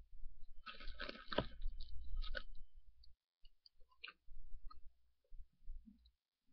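Someone chewing and crunching close to the microphone, a dense crackly stretch in the first half followed by scattered small clicks.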